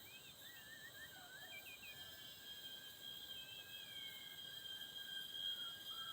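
Steady high-pitched drone of forest insects, with a bird's short whistled notes that rise and fall, scattered through it.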